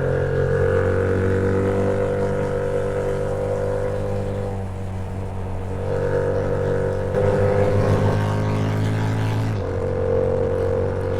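Yamaha MT-07's parallel-twin engine running under way on the road, a steady engine note whose pitch steps up and down a few times, with a clear change about ten seconds in.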